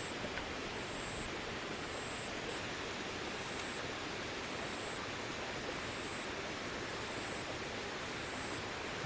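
Steady outdoor rushing noise with a faint high-pitched chirp repeating roughly once a second.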